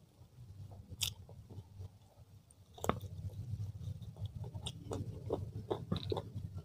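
A person biting into and chewing a grilled chicken drumstick close to the microphone. Sharp clicks come about one and three seconds in, the second the loudest, followed by many smaller wet chewing clicks over a low steady hum.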